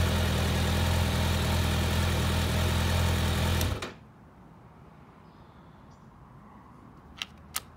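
2009 Kawasaki ZX-6R inline-four engine idling steadily, then stopping abruptly about four seconds in, followed by two sharp clicks near the end. The battery holds only about 12 volts with the engine running, the sign of a failing stator that is not charging.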